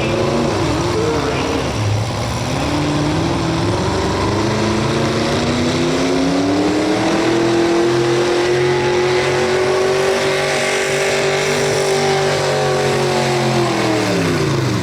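Pro Stock 4x4 pulling truck's engine run hard under load during a pull. Its pitch climbs over the first few seconds, holds high and steady, then winds down sharply near the end as the throttle is let off.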